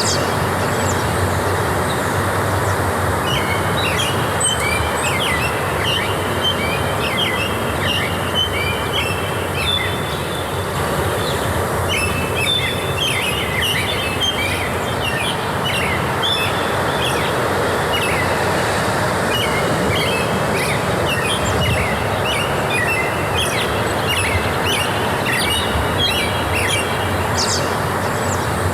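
Forest ambience: many small birds calling in short, quick notes over a steady, even rushing noise.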